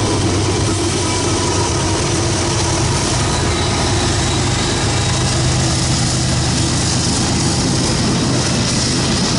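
Norfolk Southern freight train passing close by: the GE diesel locomotives' engines running with a steady low hum over the rumble of wheels on the rails, then the tank cars rolling past.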